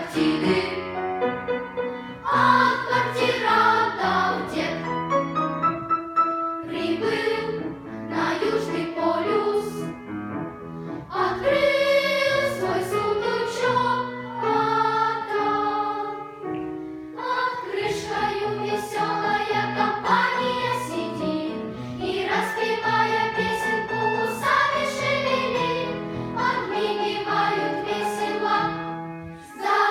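Children's choir singing a song in phrases, with short breaths between lines.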